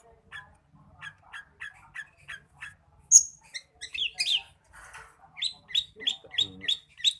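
Long-tailed shrike (pentet) singing: a run of short, sharp chirps, about four a second, then a loud high note about three seconds in, a few sweeping notes, and another fast run of chirps near the end.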